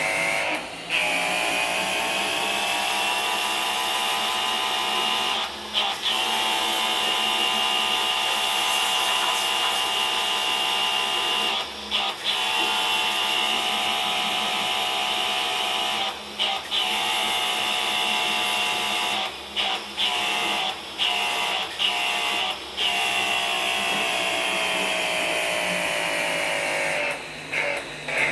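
Small electric motor running with a steady whine, like a power drill. It winds up over the first few seconds, then holds its speed, with brief cut-outs now and then and a flurry of short stops and starts near the end.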